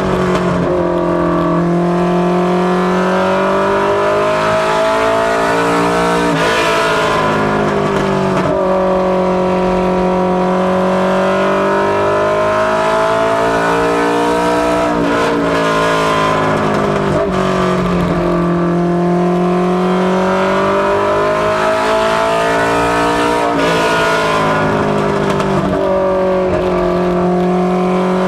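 Fox-body Mustang LX ministock race car's engine running hard at speed on a short oval. The engine note drops and then climbs again about every eight seconds as the car lifts for each turn and accelerates down each straight.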